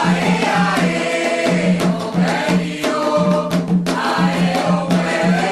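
Group of voices chanting a Yoruba Candomblé song for Xangô over a steady beat of hand drums.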